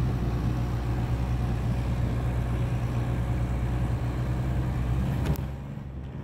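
Engine of a 4x4 running steadily under load as it climbs a steep grassy slope. Near the end the engine sound dips for about a second, then picks up again.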